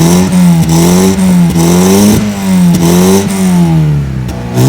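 Volkswagen MK4 Bora engine, with a newly fitted exhaust, revved in quick throttle blips: the pitch rises and falls about five times, settles briefly near the end, then climbs again.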